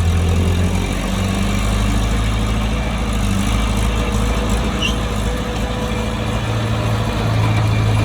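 Bulldozer's diesel engine running steadily, its low engine note rising a little in strength at the start and again about seven seconds in.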